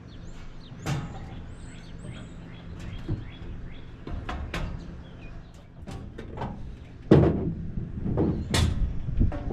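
Irregular knocks and clanks of metal parts and tools being handled while fitting an engine on its mounts, the loudest about seven seconds in and again a second or so later, over a steady low hum. Birds chirp faintly near the start.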